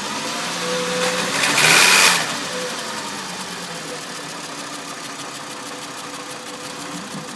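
A 2005 Volkswagen Jetta's 2.5-litre five-cylinder engine revved once, building to a peak about two seconds in, then dropping back to a steady idle. The engine has a misfire.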